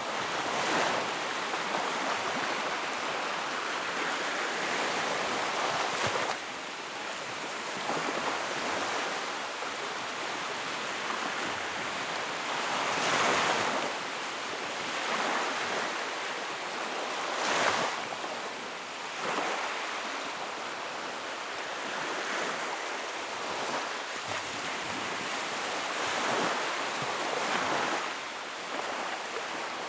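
Sea waves washing onto a shore: a steady rushing wash, with louder waves surging and breaking every several seconds.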